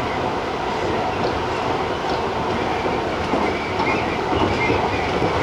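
Tobu TJ Liner electric train running at speed, heard from inside the leading car: a steady rumble of wheels on rail with a few faint clicks.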